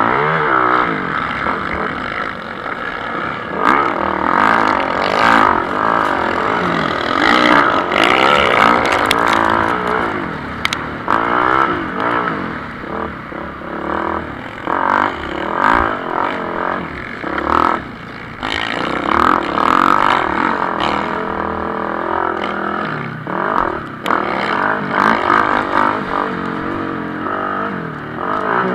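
Several motocross bikes racing, their engines revving up and down as they accelerate and shift, with the pitches of different bikes overlapping.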